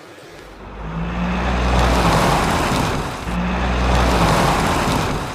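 Jet engine sound effect: a rushing engine noise with a low steady hum, swelling up over the first second or so and dipping briefly about three seconds in, for the toy jet plane taking off.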